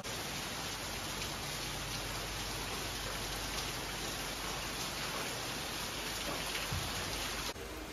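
Heavy rain falling steadily, an even hiss of a downpour.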